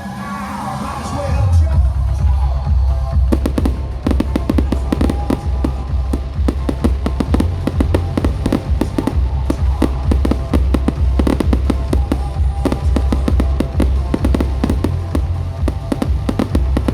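Fireworks crackling and banging in rapid, dense volleys from about three seconds in, over loud music with a heavy bass beat.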